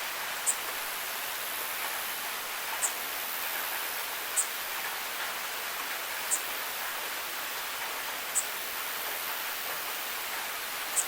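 Steady rain hiss, with six short, sharp high ticks spaced about two seconds apart standing out above it.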